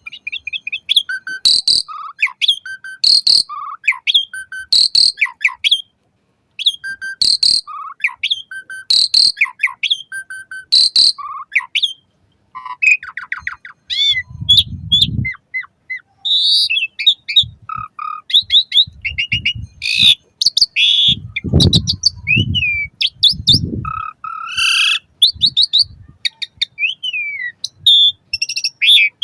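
Asian pied starling (jalak suren) singing loudly. For the first twelve seconds it repeats a short whistled phrase about every second and a half, then moves into a varied run of whistles, trills and rising and falling notes. Rough low-pitched noises come in twice, about halfway through and again later.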